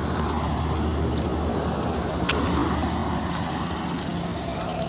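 A motor vehicle passing close by on the road, with engine hum and road noise swelling to a peak about halfway through and then easing off. There is a sharp click about two seconds in.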